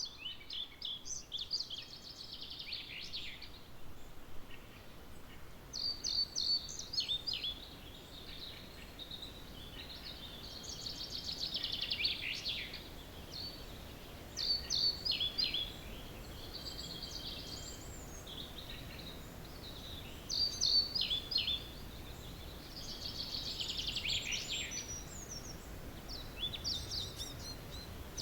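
Wild songbirds singing, with a loud song phrase every few seconds. One phrase, falling in pitch at its end, comes back about every ten seconds. Shorter bursts of high notes fall in between.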